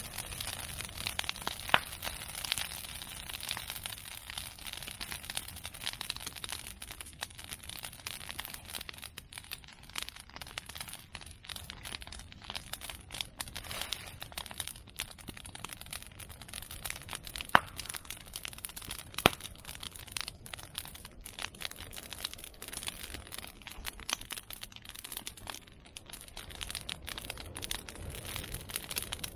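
Bonfire of cut bamboo and chestnut prunings crackling steadily with dense small snaps, and a few sharper single cracks standing out, one about two seconds in and two close together a little past the middle.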